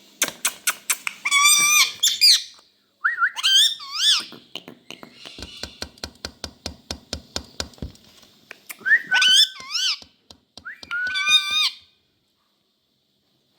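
Pet Indian ringneck parakeet calling: loud squawks and whistled notes that bend up and down, in several short bouts. Between the bouts come runs of rapid clicks, about five a second.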